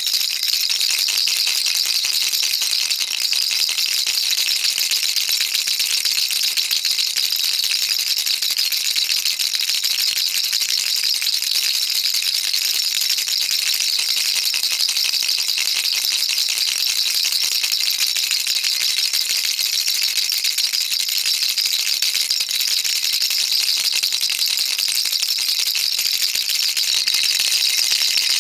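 A baby rattle shaken nonstop, giving a dense, even stream of fine rattling clicks with no pauses, bright and high in pitch.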